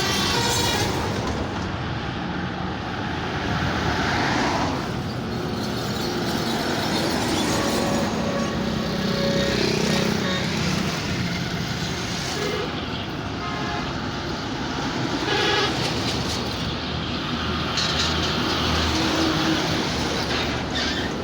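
Large truck engine running amid road traffic noise.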